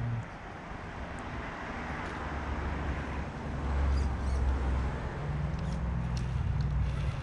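Axial SCX10 III RC crawler's electric motor and geared drivetrain running at crawling speed, a low hum that gets louder about four seconds in as it works harder, with a few light ticks.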